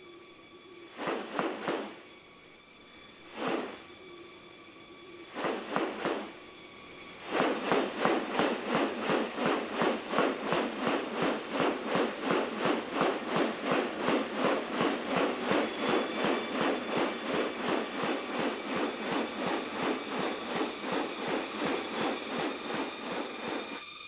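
Rainforest ambience with a steady high insect drone. Over it come a few short bursts, then, from about seven seconds in, a long run of regular pulses at about three a second that stops just before the end.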